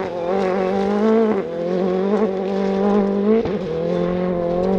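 Proton Iriz R5 rally car's 1.6-litre turbocharged four-cylinder engine held at high revs on a gravel stage, its pitch steady apart from brief dips about a second and a half in and again near the end, as it changes gear.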